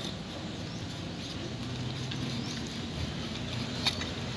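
Steady patter of falling rain, with a light click of metal parts being handled near the end.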